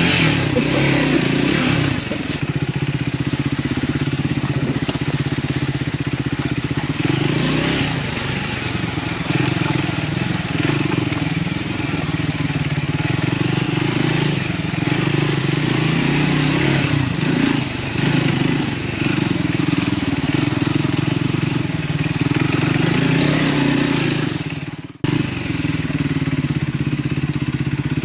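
Triumph Scrambler 400 X's single-cylinder engine running through its stock exhaust, the revs rising and falling again and again as the throttle is worked off-road. The sound cuts out for a moment about three seconds before the end.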